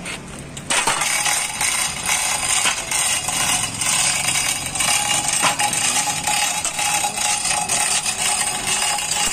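Dense metallic rattling and clinking that starts abruptly about a second in and keeps going steadily.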